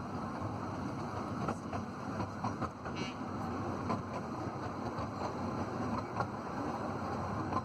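Running noise of a 15-inch-gauge railway train in motion: a steady rumble with frequent clicks and rattles. There is a short high-pitched tone about three seconds in.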